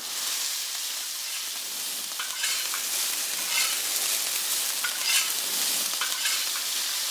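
Food frying in hot oil: a steady sizzle with occasional small pops and crackles.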